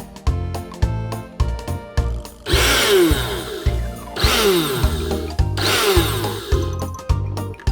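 Cook & Baker blender motor run in three short bursts of about a second each, its pitch falling as it spins down after each. It runs again after its faulty 115°C thermal fuse was replaced. Background music with a steady beat plays throughout.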